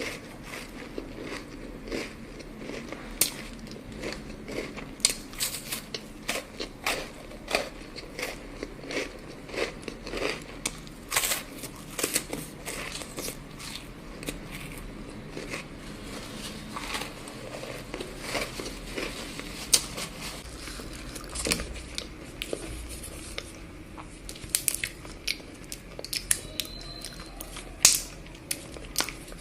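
Close-miked biting and chewing of chocolate: a continuous run of sharp, irregular cracks and crunches.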